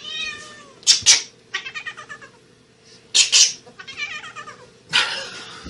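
Domestic cat meowing and yowling in three drawn-out calls, with three short, harsh, noisy bursts between them.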